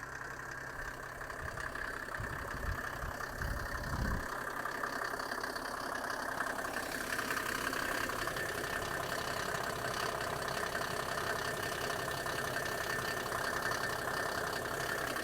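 Mercedes OM603 six-cylinder turbo-diesel idling steadily with the A/C running. A few low thumps in the first four seconds.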